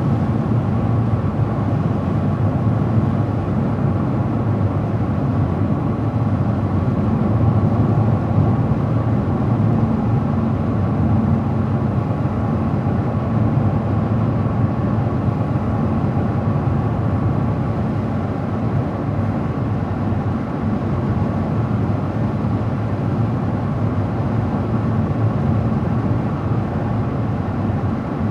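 Steady road and engine noise of a car driving at a constant speed, a low even rumble with no changes.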